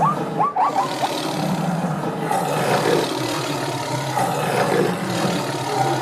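Wild animal sound effects: a continuous rough, growling roar, with a few short high-pitched calls in the first second.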